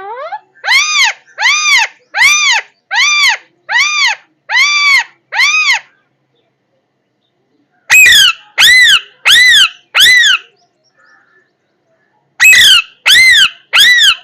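A parrot calling loudly: runs of short, harsh squawks, each rising and falling in pitch, repeated about one and a half times a second. The calls come in three bouts, about seven, then four, then four, with pauses of roughly two seconds between them.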